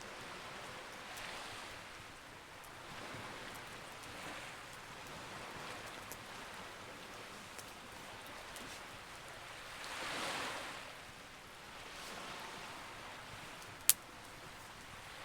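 Wood campfire crackling with scattered small pops and one sharp pop near the end, over soft surf that swells and fades every couple of seconds, the biggest swell about ten seconds in.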